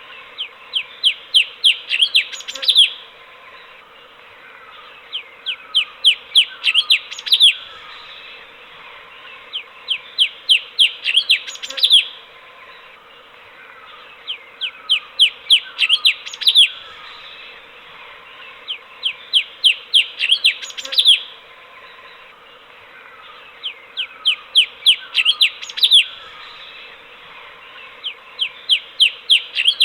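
Cucak cungkok (stripe-throated bulbul) singing. It repeats one phrase of about eight to ten quick, downward-sweeping whistled notes roughly every four and a half seconds, over a steady background hiss.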